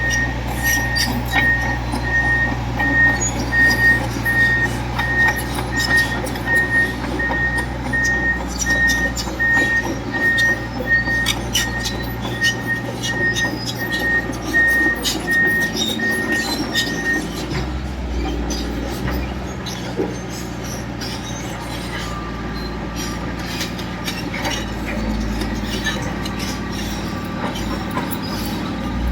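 Komatsu D65EX bulldozer's diesel engine running under load with its tracks clanking, while a reversing alarm beeps steadily; the beeping stops about 17 seconds in and the engine runs on.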